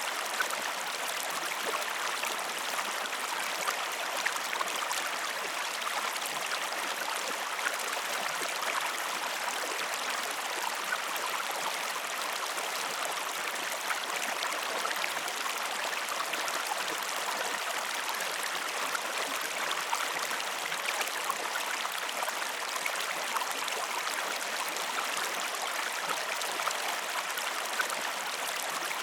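A stream running steadily, a continuous rush of flowing water with small trickling splashes.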